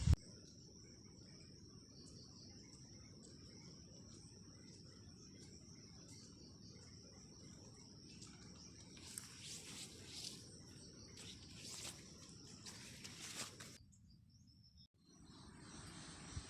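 Insects, crickets or similar, keeping up a steady high-pitched drone, with a few short scratchy sounds over it in the second half. The drone drops out briefly near the end.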